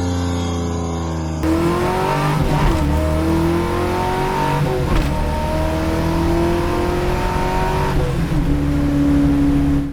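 Dodge Challenger SRT8's 6.1 Hemi V8 accelerating hard through the gears: the engine note climbs, drops at an upshift about five seconds in, climbs again, drops at another upshift about eight seconds in, then holds steady.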